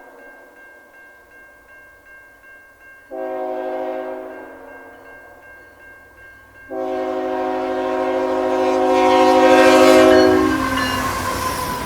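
CN diesel locomotive air horn sounding a short blast about three seconds in, then a long blast, dipping slightly in pitch near its end as the train approaches and passes. Under the horn the rumble of the train rises, and a bell rings steadily throughout.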